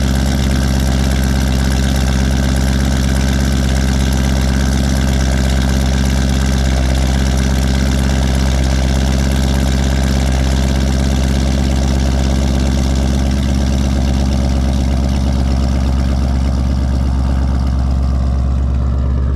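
Straight-piped Chevrolet Camaro V8 idling steadily and loudly after a cold start, heard from behind the car.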